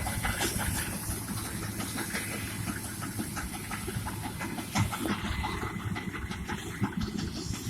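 Farm harvest machinery running: a steady engine rumble with constant fine rattling and hiss, and a single knock about five seconds in.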